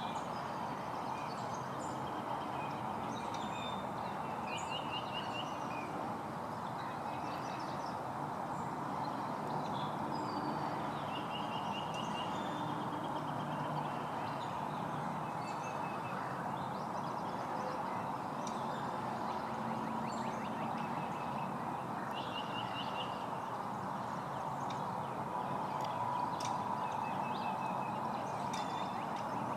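Birds chirping, with a few short rapid trilled calls, over a steady background rumble.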